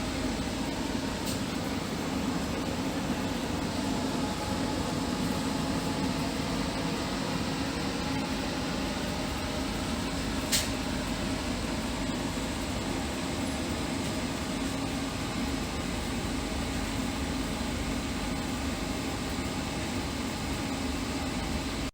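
Steady running hum and rumble heard inside an Indian Railways passenger coach, with a single sharp click about ten seconds in.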